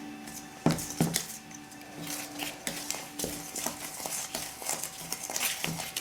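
A spoon stirring brownie batter in a mixing bowl, with irregular clinks and scrapes against the bowl and two sharper knocks about a second in.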